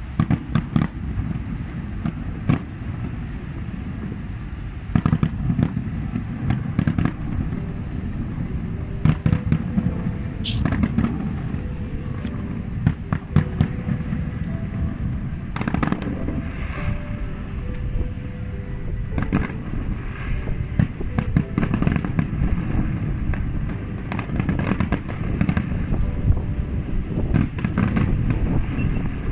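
Fireworks display: many sharp bangs going off in quick succession over a steady low rumble.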